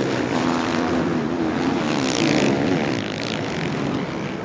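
450cc motocross bike engines running on the race track, the audio played backward. The engine note wavers up and down and fades a little toward the end.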